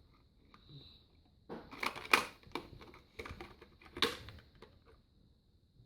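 Irregular clicking and clattering of plastic toys being handled, starting about a second and a half in and lasting about three seconds.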